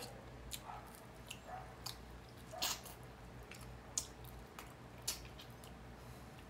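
Close-up mouth sounds of a person eating tilapia by hand: chewing with scattered short, wet smacks and clicks, about a dozen in all, the loudest about two and a half seconds in.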